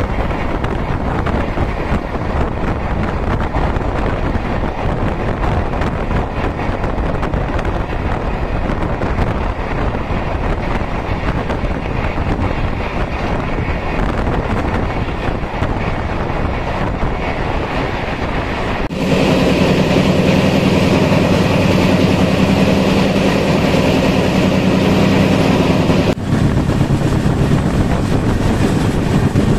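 Superfast express passenger train running at speed, with wind rushing on the microphone over the train's steady running noise. About two-thirds of the way in the sound cuts abruptly to a louder stretch with a steady low drone lasting about seven seconds, then cuts back to the wind and running noise.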